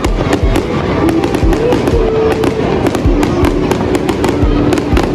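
Fireworks going off: dense crackling and popping over deep booms that come about once or twice a second.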